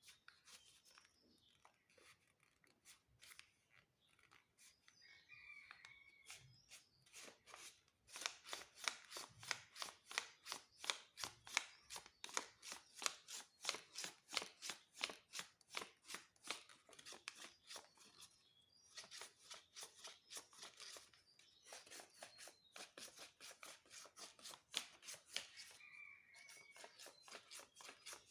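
Origami flapping bird being worked by hand: its folded paper wings flap with an even, crisp rustle, about three to four strokes a second. It starts soft, gets louder about eight seconds in, and pauses briefly twice.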